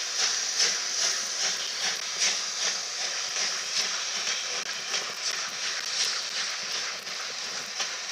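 Charter train coaches rolling past on the track, their wheels clicking over rail joints about two to three times a second over a steady rumble and hiss.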